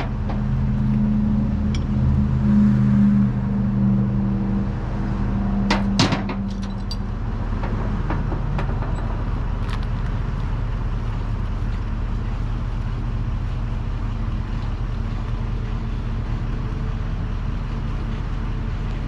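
Truck engine idling steadily, with a stronger humming tone over roughly the first seven seconds and a couple of sharp clicks about six seconds in, then a settled, even idle.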